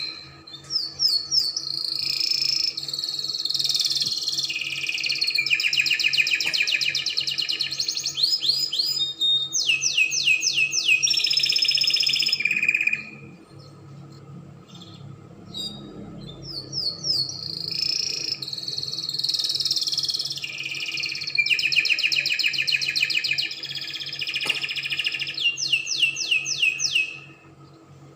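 Spanish Timbrado canary singing: long phrases of fast trills and rapid runs of repeated sweeping notes, breaking off about halfway through for a few seconds and then starting again. A faint steady low hum sits underneath.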